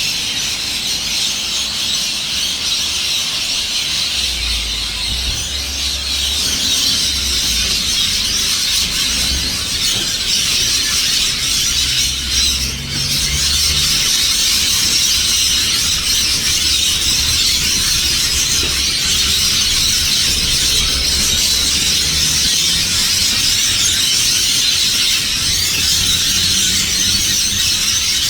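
A large flock of birds in trees screeching and chattering all at once, a dense, steady, high-pitched din with no pauses.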